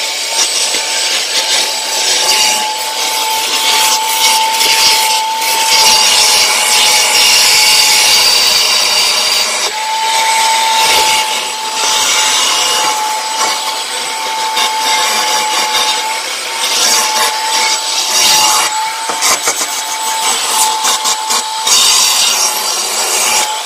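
ProTeam commercial backpack vacuum running with a steady whine that wavers slightly in pitch, its tool scrubbed back and forth over carpet in uneven strokes.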